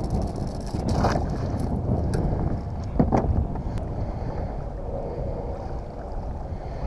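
Wind rumbling on the microphone aboard a kayak on open water, with a couple of short knocks about one and three seconds in.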